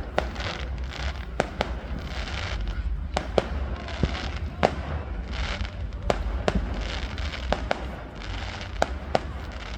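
Fireworks going off all around: about fifteen sharp bangs at irregular intervals, some louder and nearer than others, with crackling and hissing between them.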